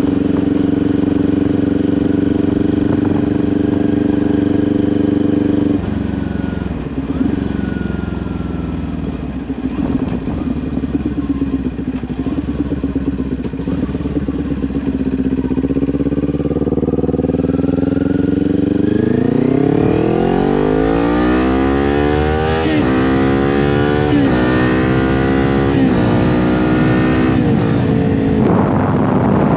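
Kawasaki Ninja 400 parallel-twin engine through an aftermarket SC-Project exhaust, heard while riding. It holds a steady cruise, drops off when the throttle closes about six seconds in, and runs low for a while. From about halfway it pulls hard, with revs climbing and falling back quickly several times as it shifts up through the gears.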